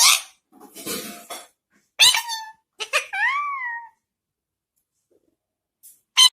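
Pet parrot vocalising: raspy, breathy squawks, then a short pitched call and a whistled note that rises and falls; after a pause, one brief sharp squawk near the end.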